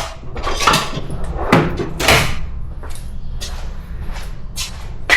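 A metal tool scraping and knocking at a loose valve seat in a cylinder head, trying to pop it out: about five short, sharp scrapes and clinks a second or so apart. The seat is working loose from the head.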